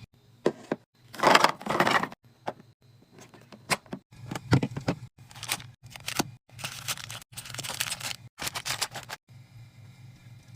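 Food packaging and containers being handled and set into a fridge: plastic rustling, crinkling and sharp clicks and knocks, in short bursts with abrupt breaks between them. A low steady hum runs under the last second or so.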